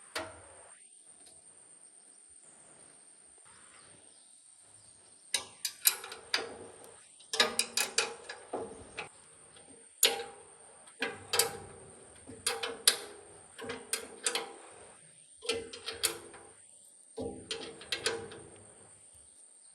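Metal parts and hand tools knocking and clinking in irregular clusters, starting about five seconds in, each knock with a short ring. A faint steady high-pitched tone runs underneath.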